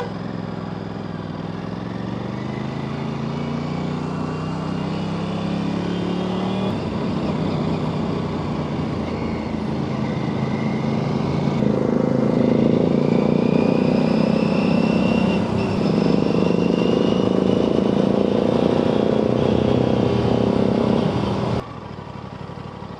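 Aprilia RS 457 parallel-twin engine pulling away under acceleration, its note rising and stepping down at gear changes about seven and sixteen seconds in, over steady riding noise. It grows louder in the middle and drops off abruptly near the end.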